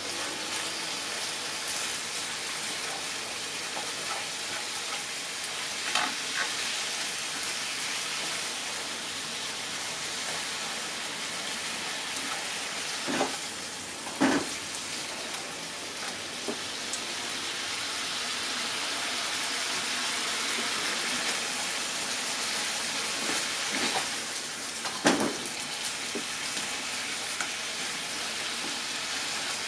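Chicken pieces and onion sizzling steadily in a frying pan as they are stirred with wooden cooking chopsticks, with a few sharp knocks of the chopsticks against the pan scattered through.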